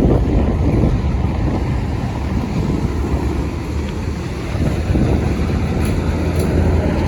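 Steady low rumble of motorway traffic, with wind buffeting the microphone.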